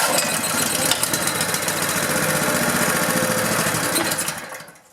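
Honda GX200 single-cylinder engine on choke running for about four seconds, then dying away near the end. It runs only briefly, which the owner takes as acting like it isn't getting fuel, with the carburetor probably clogged from sitting.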